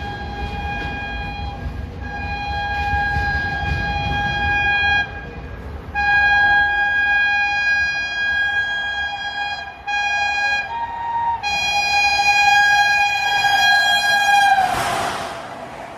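Express train's locomotive horn sounding a series of long blasts as the train approaches at speed, with a low rumble beneath the first ones. Near the end the horn's pitch drops as the locomotive passes, followed by a brief rush of noise from the passing train.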